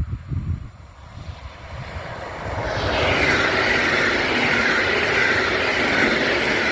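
Koleje Mazowieckie electric multiple unit passing close by: the rolling wheel-on-rail noise swells over the first couple of seconds and is loud and steady from about three seconds in, with a hissing high band. Wind gusts on the microphone in the first second.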